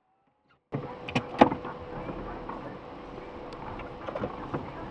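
Near silence, then, about three-quarters of a second in, an abrupt start of steady machine noise with one constant tone. Several sharp knocks and clicks come over it, the loudest a little under a second later.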